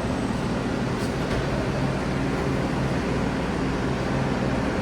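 Washington Metro 7000-series subway train standing at the platform just after its doors close, running with a steady low hum and noise. A couple of faint clicks come about a second in.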